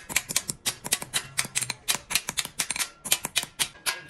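Rapid, uneven series of sharp light strikes, several a second, like quick tapping in a workshop.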